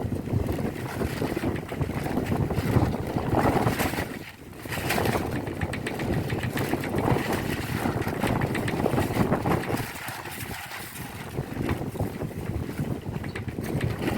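Rain pouring onto roof tiles in strong, gusty wind, the gusts buffeting the microphone. The wind dips briefly about four seconds in, then swells again.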